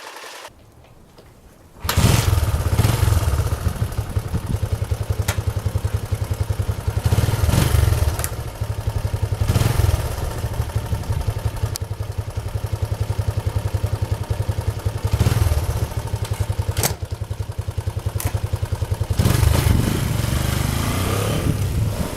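Honda XL125S single-cylinder four-stroke engine starting about two seconds in, then running with a fast, even beat and several short blips of the throttle. It is run with a newly fitted cam chain tensioner.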